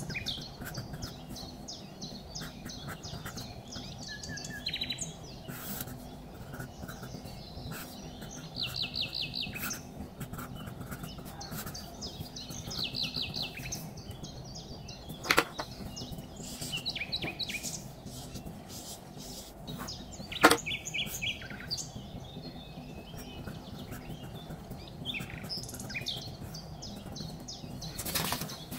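Small birds chirping and trilling, with many short repeated notes, over a steady low hum. Two sharp clicks stand out, about fifteen and about twenty seconds in.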